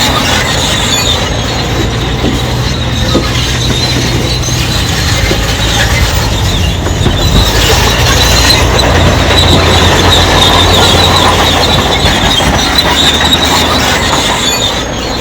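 Crawler bulldozer at work: its diesel engine runs steadily under load while the steel tracks keep up a high squeal with scattered clanks.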